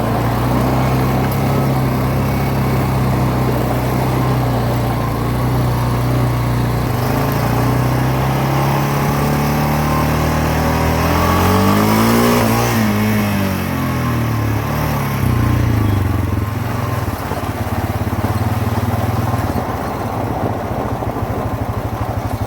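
A vehicle engine running steadily; about halfway through its pitch rises and then falls again.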